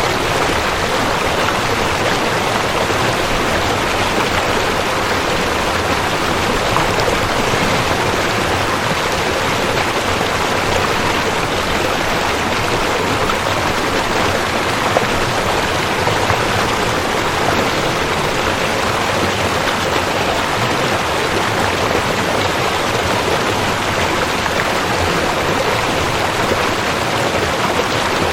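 Waterfall: water falling and rushing in an unbroken, even hiss with no change in level.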